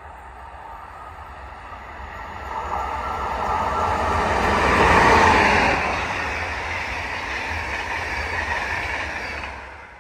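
A train passing on the line, growing louder to a peak about halfway, then running on steadily before cutting off suddenly near the end.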